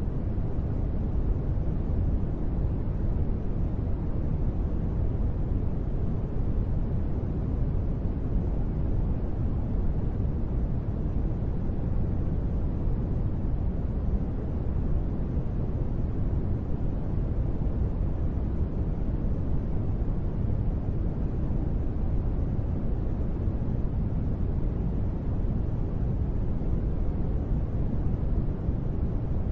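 Steady, deep rushing noise with no changes, from a sleep white-noise track billed as gentle rain; no separate drops or thunder stand out.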